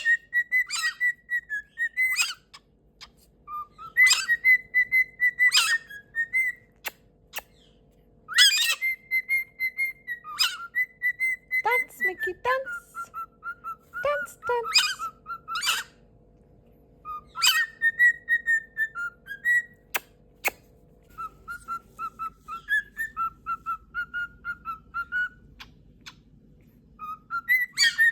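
A pet parrot whistling a tune in phrases of short, quickly repeated notes, first at one pitch and then lower from about halfway through. Sharp squawks or clicks come in between the phrases.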